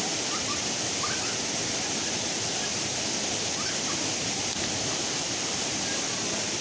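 Waterfall: a steady, even rush of falling water, with a few faint short chirps over it.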